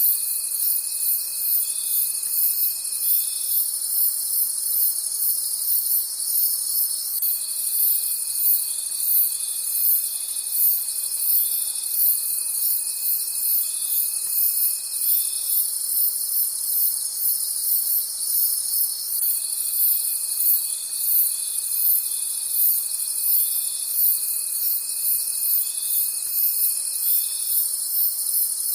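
A dense night chorus of crickets chirping in a fast, continuous pulse. A lower, steady trill runs through it in long stretches of about eight seconds, stopping for a few seconds between them.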